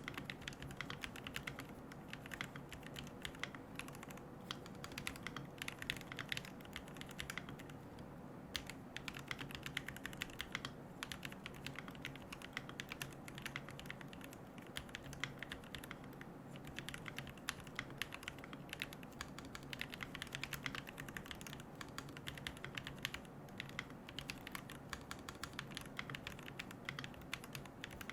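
Fast, continuous typing on a QK75N mechanical keyboard with Gateron Moon Landing switches, MilkyWay Poker keycaps and a carbon plate, with no foam inside: a steady stream of keystroke clacks.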